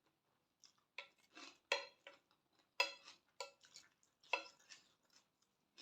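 A metal spoon clinking and scraping against a dish, about seven sharp clinks with a short metallic ring, as food is scooped up to eat.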